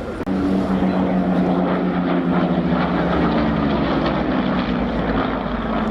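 Piston-engined propeller warbird of the Battle of Britain Memorial Flight flying by: a loud, steady engine drone whose pitch sags slightly as it passes. It starts abruptly about a quarter second in.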